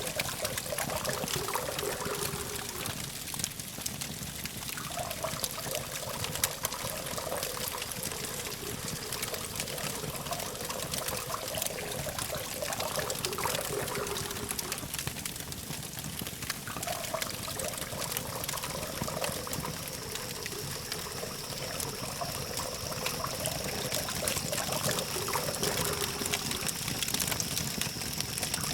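Campfire burning, wood crackling and popping in many small sharp snaps over a steady hiss, with a distant city and traffic hum behind it. A thin steady high tone comes in about two-thirds of the way through.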